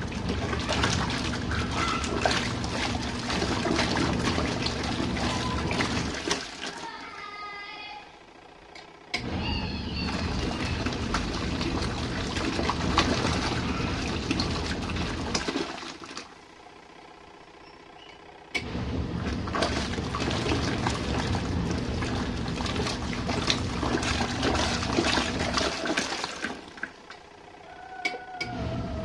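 Small RV washing machine agitating its load, water sloshing over a steady motor hum. It runs in long spells and stops twice for a couple of seconds before starting again.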